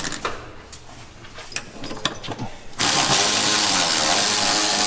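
Pneumatic air tool running, starting abruptly about three seconds in with a loud, steady, hissing whir, then stopping about two and a half seconds later. It is driving bolts home on the reinstalled drivetrain parts. Light clicks of tools and parts come before it.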